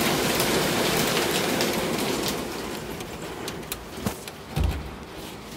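Rain falling steadily, louder in the first half and then softer. A few sharp ticks and a short low thump come about four seconds in.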